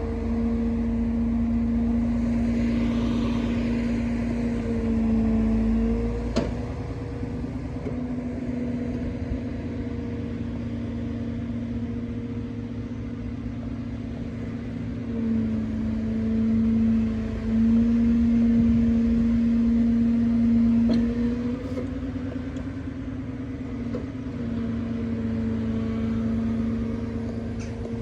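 Truck-mounted crane at work: the truck's engine and hydraulic pump keep up a steady hum, its pitch stepping up and down several times as the crane's controls are worked, with a few short knocks.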